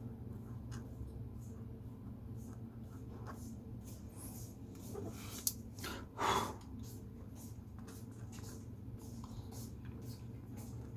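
Drawing strokes scratching on paper, faint and intermittent, over a steady low room hum. A short sniff or breath a little past the middle is the loudest sound, just after a sharp click.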